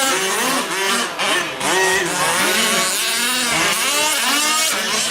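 Several 1/5-scale gas RC trucks' small two-stroke engines buzzing and revving up and down as they race, their pitches rising and falling and overlapping.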